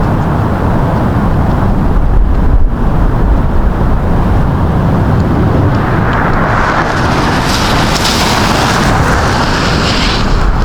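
Semi-truck's diesel engine running with a steady low rumble. A broad hiss joins in about six seconds in.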